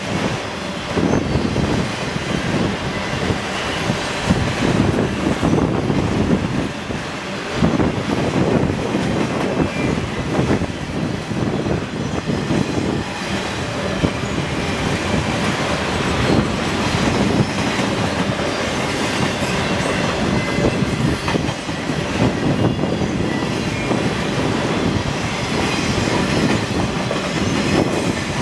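A long freight train of enclosed autorack cars rolling past, its steel wheels running on the rails in a loud, steady din.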